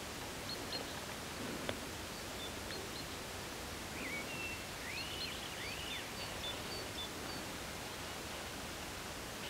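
Small birds chirping over a steady outdoor hiss: short high chirps come and go, with a few longer whistled notes that rise and fall about halfway through.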